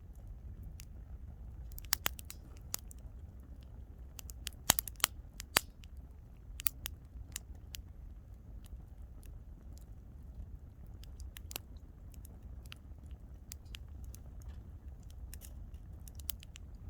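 Wood campfire crackling, with irregular sharp pops that come thickest about two seconds in and again around five seconds, over a steady low rumble.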